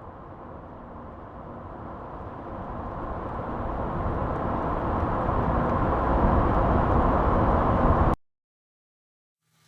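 Car approaching, its engine and road noise swelling steadily louder for about eight seconds, then cutting off suddenly.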